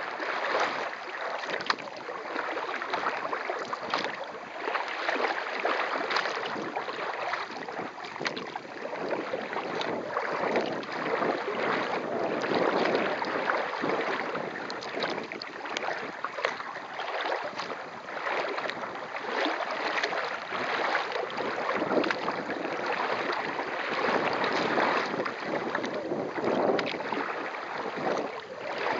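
Water splashing and lapping around a kayak under way, with wind on the microphone.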